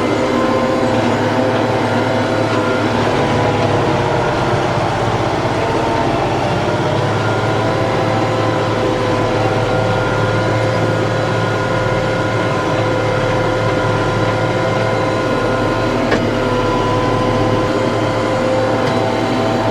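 TYM T654 tractor's diesel engine running steadily under work, its pitch shifting slightly a few times, with a single light tick about sixteen seconds in.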